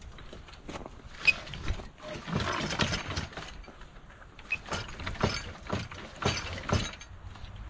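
Sharp metal knocks and clanks at irregular intervals, with a second or so of scraping a couple of seconds in: parts of a tractor's cultivator mounting being worked loose.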